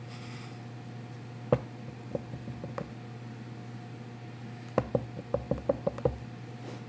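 A series of light knocks or taps: one sharp one about a second and a half in, a few softer ones just after, then a quick run of about seven near the end, over a steady low hum.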